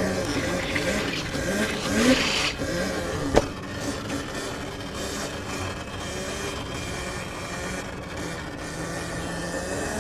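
Sur-Ron electric dirt bike's motor whining, its pitch rising and falling with the throttle as it rides around, over tyre noise. A sharp knock comes about three and a half seconds in.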